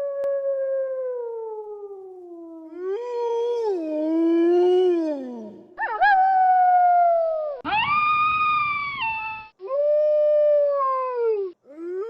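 Wolves howling: a string of about six long howls one after another, each holding a pitch and then sliding down, some rising sharply at the start. The howls begin and end abruptly.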